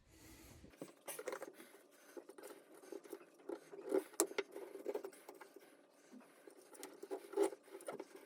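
A plastic vacuum cleaner tube scraping and knocking irregularly inside a shower floor drain as it pushes out the old goop between the shower floor and the drain pipe.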